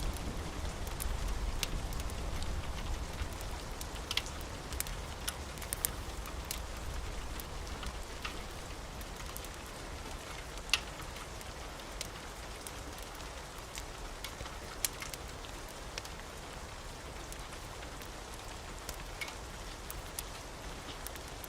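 Steady rain with scattered sharp crackles and pops from a wood fire. A low rumble fades out in the first couple of seconds.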